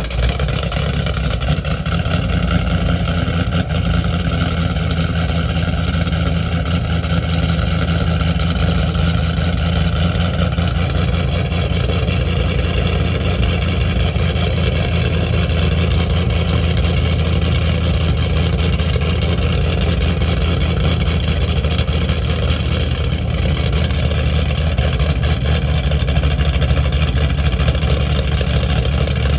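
A Chevrolet Camaro's LS V8 with an aftermarket GPI camshaft idling steadily right after its first start on the new cam.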